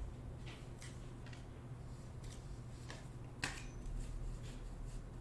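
Faint, scattered light clicks and taps over a steady low hum, the most distinct about three and a half seconds in.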